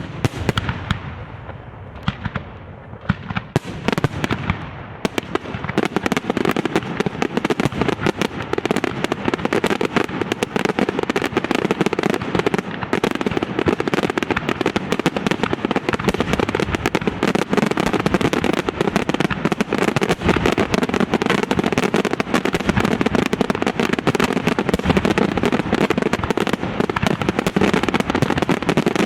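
Aerial fireworks display: a sharp bang, a few separate shell bursts, then from about five seconds in a dense, continuous barrage of bangs and crackling.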